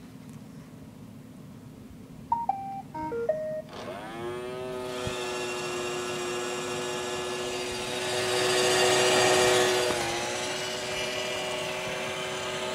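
iRobot Roomba robot vacuum plays a short electronic beep melody of stepped notes, then its vacuum motor spins up with a rising whine and runs steadily as it heads for its dock, growing louder for a couple of seconds in the middle.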